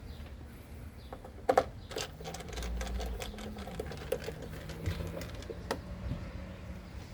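A small motor whirring with a low steady hum, plus sharp clicks and knocks, as T20 Torx screws are backed out of a plastic cover. The hum rises, then steps down partway through.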